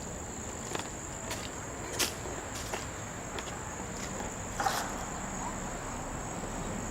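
Insects, crickets by the sound of it, trilling in one steady high-pitched note, with a few light clicks here and there.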